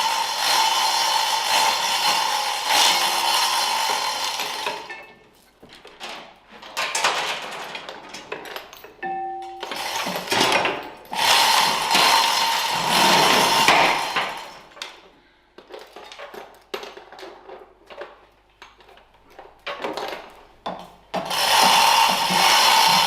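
Metalworking in a workshop: a power tool runs steadily for about five seconds, then comes a stretch of short, irregular scraping and rubbing strokes with pauses, and the tool runs again near the end.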